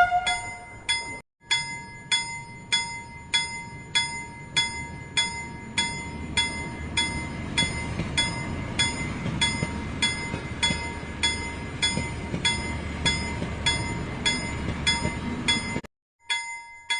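Train bell sound ringing in rapid, even strikes, about three a second, over a low running rumble that grows louder in the middle. The sound breaks off briefly about a second in and again just before the end.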